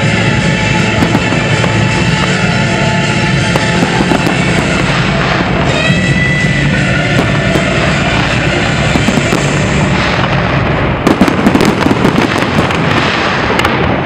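Fireworks display going off in a dense, continuous run of bursts and crackles, with music playing along. From about ten seconds in the bangs come sharper and thicker.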